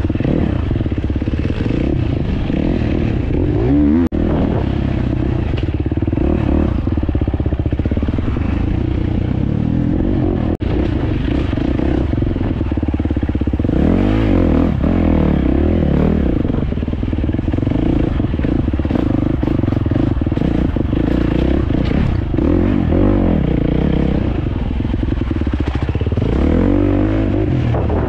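Off-road motorcycle engine under way, its pitch rising and falling again and again as the throttle is opened and closed.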